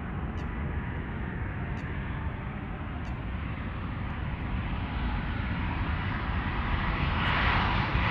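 Boeing 777-200's twin GE90 jet engines on landing approach: a steady rumble and jet roar that grows louder as the airliner closes in, loudest near the end.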